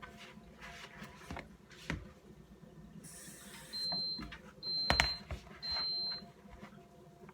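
Soft knocks and rustles of dough being mixed by hand in a bowl, then three high, even electronic beeps from a kitchen appliance, each about half a second long, with a sharp click during the second.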